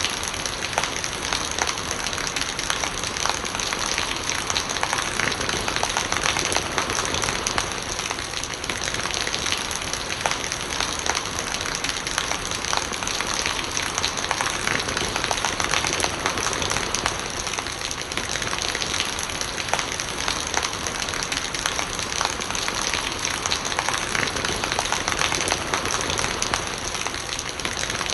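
Steady rain falling, with many single drops ticking sharply on surfaces over a constant wash of rain and gurgling rainwater.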